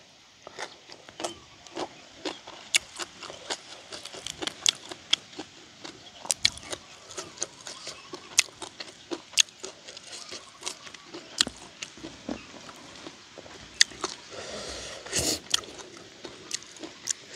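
A person chewing a mouthful of papaya salad, grilled frog and raw greens close to the microphone: an irregular run of crisp crunches and wet mouth clicks, with a louder, denser stretch of chewing near the end.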